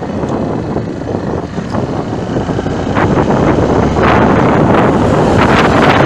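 Wind rumbling and buffeting on the microphone over the noise of road traffic, growing louder about two-thirds of the way through.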